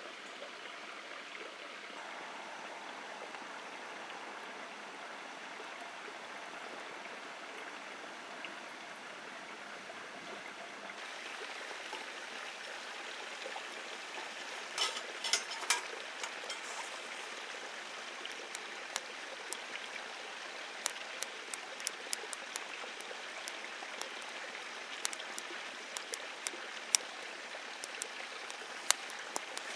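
Wood campfire burning: a steady hiss with sharp crackles and pops. There are a few louder snaps about halfway, then single pops every second or so.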